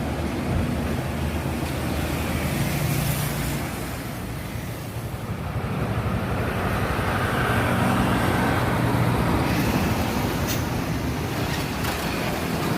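Trucks and other traffic passing on a busy highway, engines running. One vehicle comes up close and passes, loudest a little past the middle.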